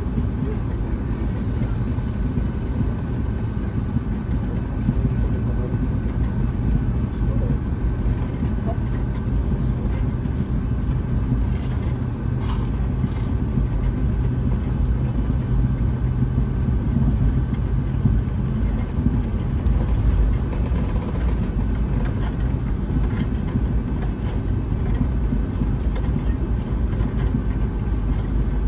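Steady airliner cabin noise inside a Boeing 757-200: the jet engines and cabin systems running with a constant low rumble and steady hum, with a few faint clicks partway through.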